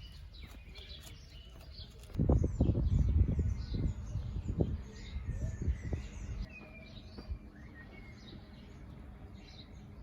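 Small birds chirping and twittering throughout. From about two seconds in, a loud, low rumbling noise comes and goes for about four seconds.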